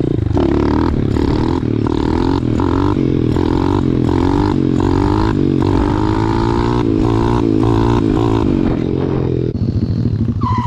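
Small single-cylinder pit bike engine running under way on a dirt trail. Its pitch wavers up and down with the throttle, and the sound changes near the end.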